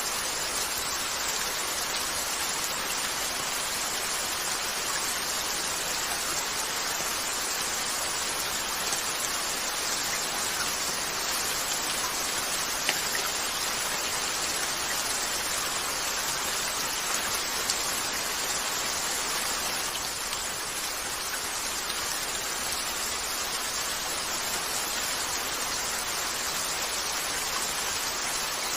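Steady rain falling on a window, an even hiss that holds level throughout, with a couple of faint single ticks about halfway through.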